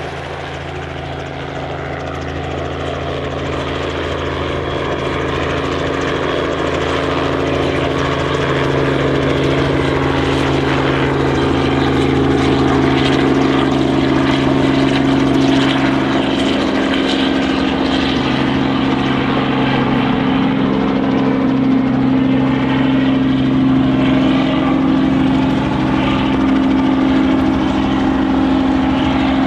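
A large engine running with a steady low drone. It grows louder over the first ten seconds or so, then holds steady.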